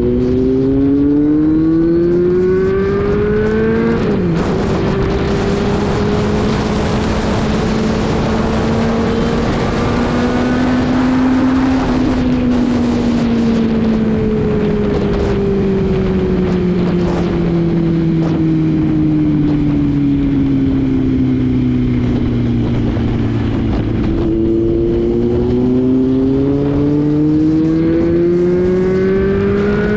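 Motorcycle engine with a loud exhaust under way: the revs climb and drop sharply at a gear change about 4 seconds in, rise slowly, fall away steadily as it slows, then climb again to another shift near the end. A steady rush of wind runs underneath.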